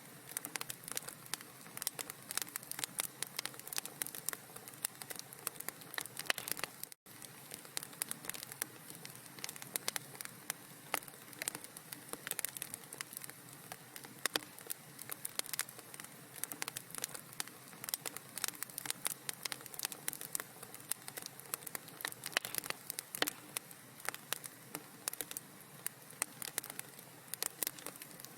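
Wood fire crackling in a fireplace: a dense, irregular stream of small pops and snaps over a soft hiss, cutting out for an instant about seven seconds in.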